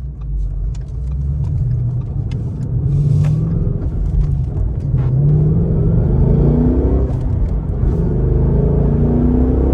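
Ford Mustang GT's 5.0 L Coyote V8 accelerating hard from low speed towards 60 mph, its deep rumble climbing in pitch several times and growing louder. The car is on its exhaust as it stood before the muffler delete.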